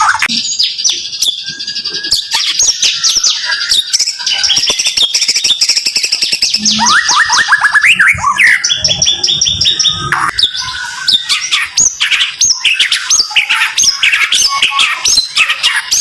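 White-rumped shama (murai batu) singing a fast, close-packed 'tembakan' song: rapid volleys of sharp repeated chirps and whistles, with a run of rising sweeps about seven seconds in.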